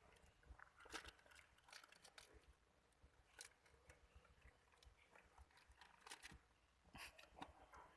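Near silence with faint, irregular small clicks and rustles.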